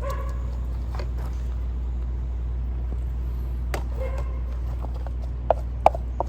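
Steady low rumble of a propane gas burner running, with a few light ticks and two sharp clicks of metal against metal about five and a half and six seconds in.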